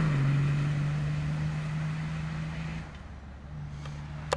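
Off-road 4x4's engine running at a steady pitch, fading as the vehicle drives away. A single sharp click near the end.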